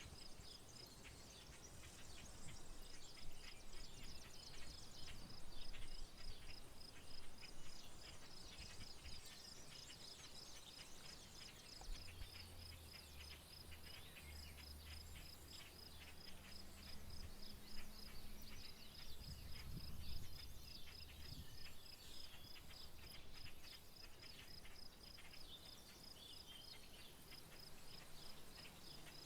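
Rural wetland soundscape: an insect, a cricket or katydid, trilling steadily in rapid even pulses, with scattered bird chirps over it. A faint low hum comes in around the middle.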